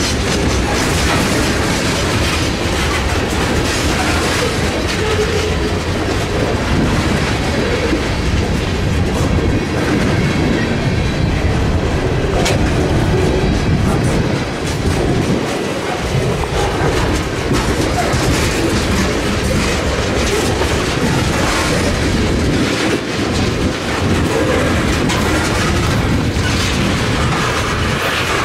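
A freight train rolling past, with loud, steady wheel-on-rail noise throughout.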